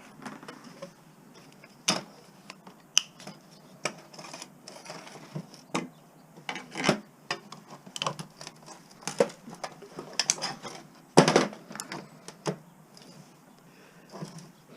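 Small pieces of scrap metal being handled and sorted by hand: irregular clinks and knocks of metal on metal, the loudest a short cluster about eleven seconds in.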